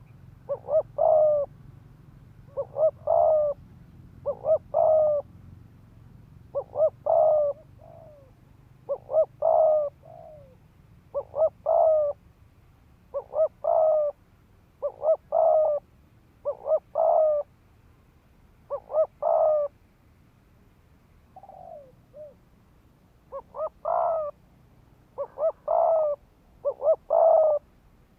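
Spotted dove cooing in quick repeated phrases: a few short notes running into a longer coo, about one phrase every two seconds. This is the rapid 'thúc gù' coo of a decoy dove, used to rouse wild doves.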